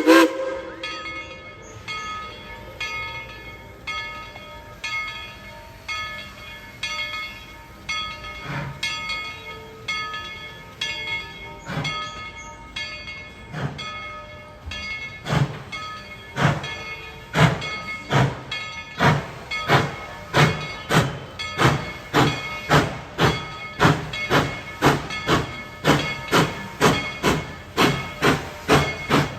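Steam locomotive starting off, its exhaust chuffing in a steady beat that quickens and grows louder as it gathers speed, after a sharp bang right at the start.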